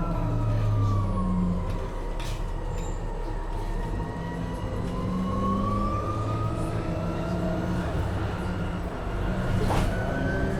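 MAN Lion's City Hybrid city bus heard from inside while driving, with its electric drive whining in a tone that glides down and then rises again, over a low engine hum. Two brief clicks come through, about two seconds in and near the end.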